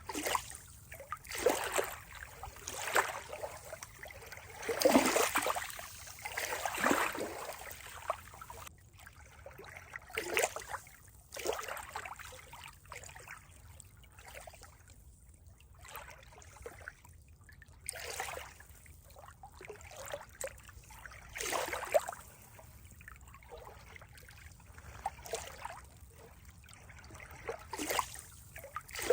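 Water trickling and splashing in uneven surges every second or two.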